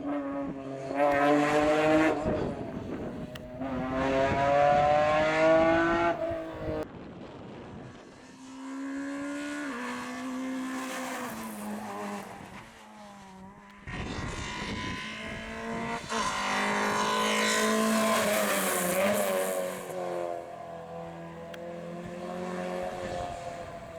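Rally car engines revving hard as the cars pass at speed, the pitch climbing and then dropping sharply at each gear change. The sound cuts abruptly to another car about fourteen seconds in.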